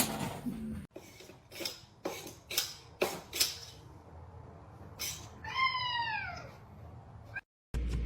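A domestic cat gives one drawn-out meow that falls in pitch, after a run of short sharp clicks or taps.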